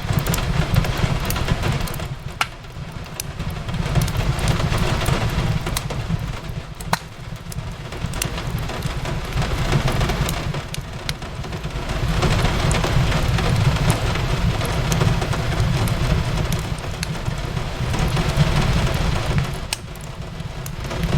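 Rain falling on a window mixed with a crackling fireplace: a steady hiss with a low rumble that swells and fades every few seconds, and occasional sharp pops.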